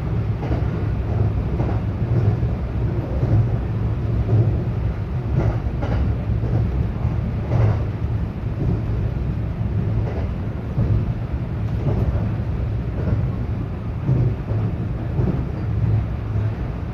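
Local train running, heard from inside the carriage: a steady low rumble of wheels on rail with a few faint clacks now and then.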